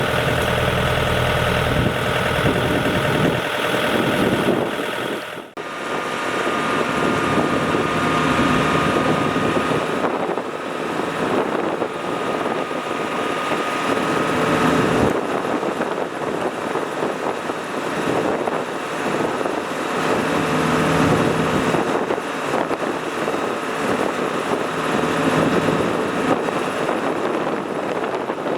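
Heavy farm-machinery diesel engines running with a steady drone, broken by a brief sharp dip about five seconds in, after which the deep rumble is weaker.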